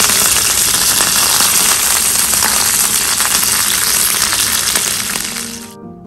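Chopped onions, curry leaves, bay leaves, dried red chilli and fennel seeds frying in hot oil in a non-stick pan, a loud, steady sizzle full of fine crackles. Near the end the sizzle cuts off abruptly and music begins.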